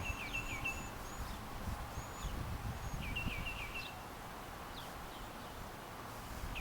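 Small birds calling: a quick series of short repeated chirps at the start and another about three seconds in, with a few thin high notes above them, over a steady low background rumble.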